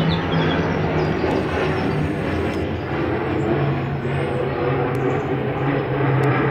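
Embraer Phenom 100 light business jet's twin turbofan engines running loud and steady, a dense jet rush over a low drone that sinks a little in pitch about halfway through.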